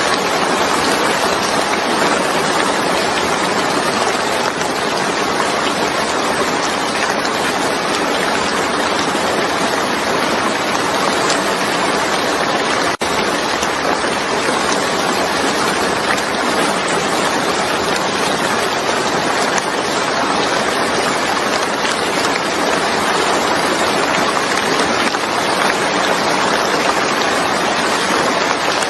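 Steady heavy rain falling onto a wet, water-covered surface: a dense, even patter of drops that doesn't let up, with a split-second dip in level about halfway through.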